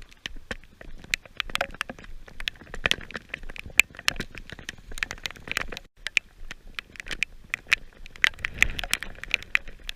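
Heavy rain: dense, irregular sharp ticks of raindrops striking close to the microphone. The sound briefly cuts out just before six seconds in.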